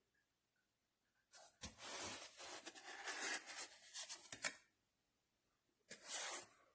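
Rustling, tearing handling noise in two stretches: a longer one starting about a second in, and a short one near the end.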